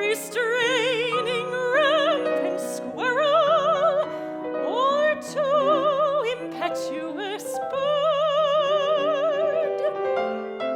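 A classical soprano sings in operatic style with a wide vibrato over piano accompaniment. The voice stops near the end and the piano carries on alone.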